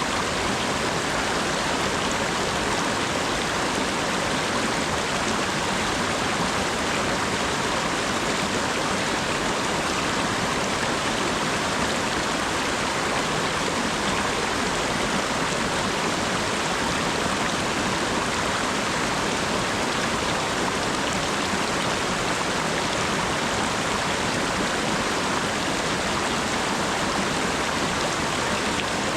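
Steady rain falling, an even, unbroken hiss of water with no single drops standing out.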